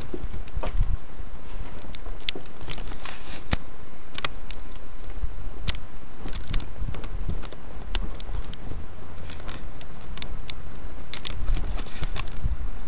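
Cat crunching and chewing on a freshly caught rodent: irregular sharp crunching clicks, some runs close together, over a low rumble of wind on the microphone.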